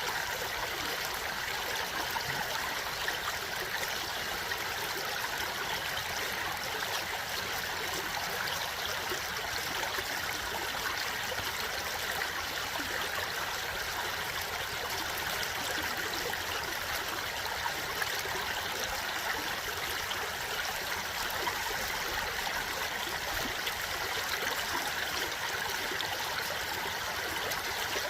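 Running water from a stream, a steady, even rush and babble without pause.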